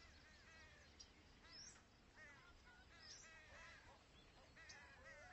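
Faint farmyard birds calling: a scatter of short, repeated squawks and chirps over a steady low hum.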